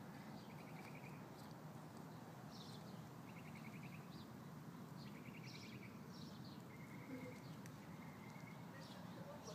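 Small songbirds chirping and singing faintly over a low steady background hum. The song comes as short high chirps, three brief rapid trills in the first half and a couple of thin held notes near the end.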